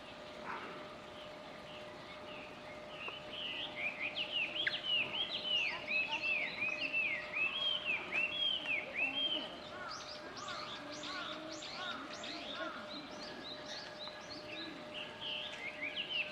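Birds chirping: rapid runs of short, curved, repeated notes that start a few seconds in, joined about ten seconds in by a quicker burst of higher upswept notes. A faint steady tone hums underneath.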